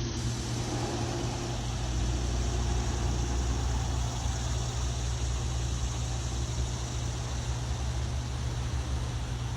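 Steady low rumble of a vehicle, with an even hiss above it and no change in pitch.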